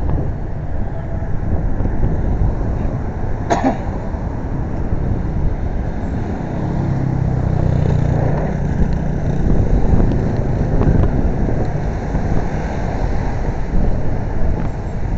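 Steady low rumble of wind and road noise from riding through city traffic, with a passing vehicle's engine swelling a few seconds in and a sharp click early on.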